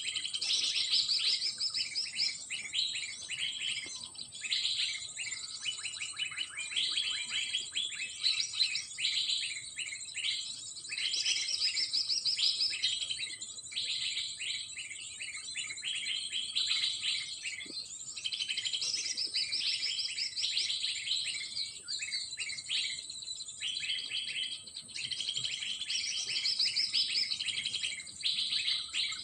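Small birds chirping and twittering continuously in quick, repeated phrases, over a steady high-pitched hum.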